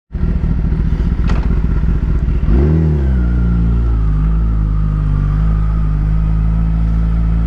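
Kawasaki ZX-10R's inline-four with a Graves race exhaust running at a low, steady note. There is a light click just over a second in, then one quick throttle blip at about two and a half seconds that rises and falls back into a steady run.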